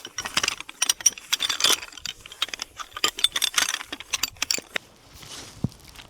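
Rapid clicking and clinking of small hard objects being handled, thinning out after nearly five seconds.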